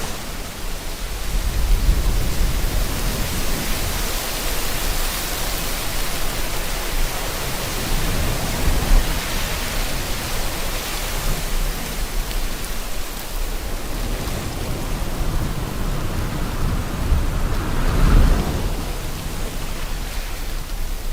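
Steady rain hiss mixed with ocean waves, the surf rising and falling in slow low surges, the biggest one near the end.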